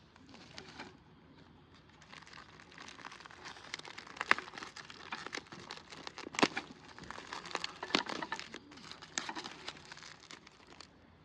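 Crinkling of packaging being handled: a run of irregular sharp crackles, loudest near the middle.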